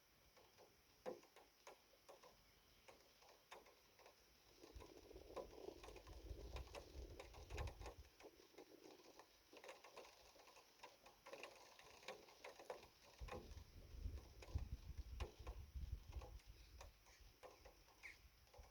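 Faint rain patter: scattered drops tick irregularly. A low rumble swells twice, from about five to eight seconds in and again from about thirteen to seventeen seconds in.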